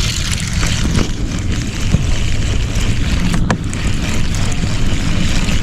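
Wind buffeting the microphone: a steady low rumble and hiss, with a few faint clicks.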